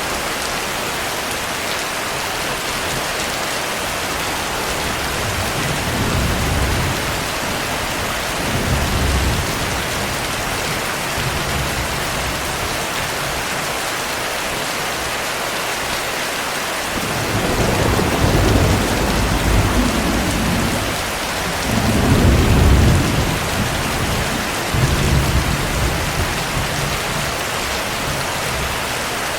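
Steady heavy rain hissing, with several low rolls of thunder rumbling under it; the strongest come in the second half, two big rolls a few seconds apart.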